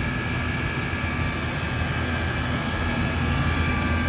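Trane XE1000 heat pump outdoor unit running steadily: compressor hum under the rush of the condenser fan, while the system is being charged with R22 refrigerant.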